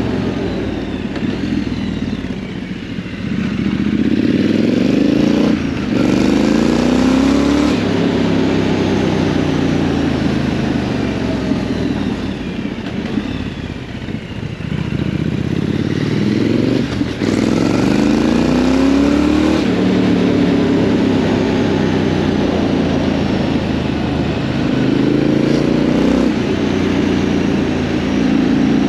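Triumph Scrambler 900's parallel-twin engine accelerating through the gears. Its pitch climbs in each gear and drops at upshifts about six and seventeen seconds in, over a steady rush of wind noise.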